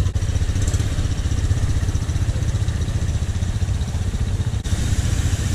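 Honda CRF150L dirt bike's single-cylinder four-stroke engine running steadily at low revs.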